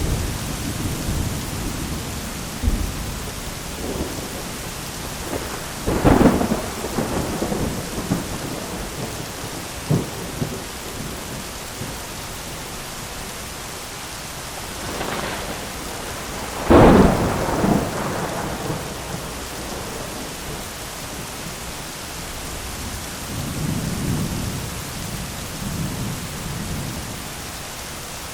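Steady heavy rain falling on an umbrella, with thunder: two loud cracks about six and seventeen seconds in, each trailing off, and lower rolling rumbles near the start and again near the end.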